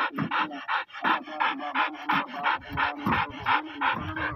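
Dog panting hard and fast, about three breaths a second.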